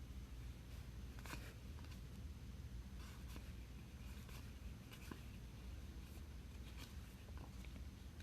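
Faint slides and flicks of trading cards being handled and flipped through one by one, over a low steady hum.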